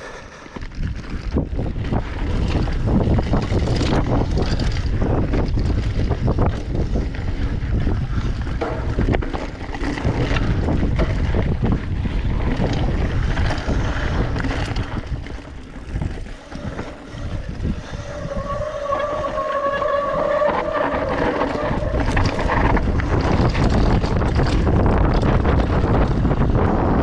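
Wind rushing over the microphone during a fast downhill run on a ski slope, with snow scraping and chattering under the skis or board. It eases briefly past the middle, then builds again.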